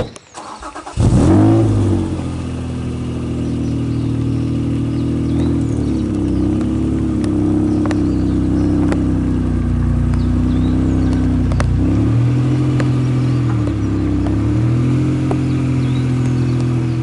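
Honda NSX NA1's V6 with an all-titanium aftermarket exhaust cold-started: a click and a short crank, then about a second in it catches with a loud flare and settles into a steady idle that dips briefly a few times.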